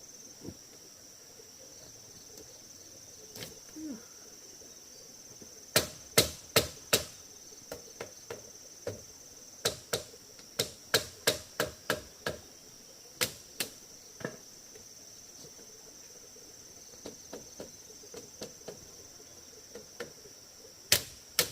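Repeated sharp knocks of a tool striking something hard, in irregular runs of a few strikes starting about a quarter of the way in, over a steady high-pitched insect drone.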